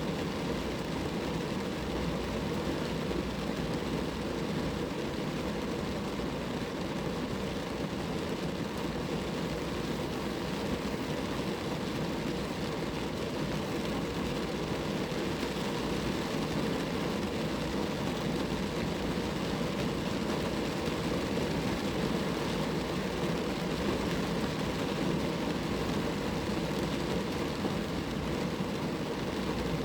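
Rain falling steadily on a car, an even hiss that does not change.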